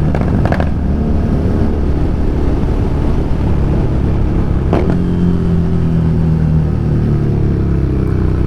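Harley-Davidson Street Rod 750's V-twin engine running steadily under way. There is a short knock near the start and another about five seconds in, and after the second the engine note slowly drops in pitch.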